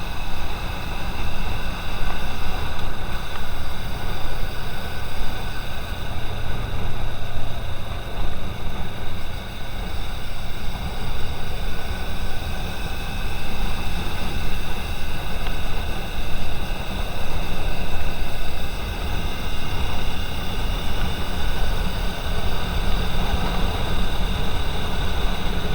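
Steady driving noise of a car moving in traffic: a low engine and tyre rumble with road hiss, unchanging throughout.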